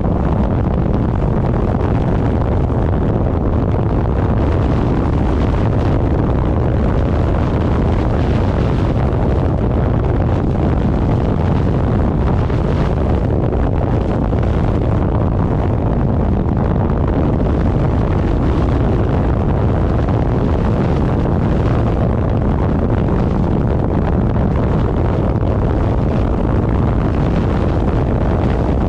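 Steady, heavy wind rush buffeting the microphone of a moving vehicle at speed, with its engine running underneath. The noise is loudest in the low end and holds evenly without a break.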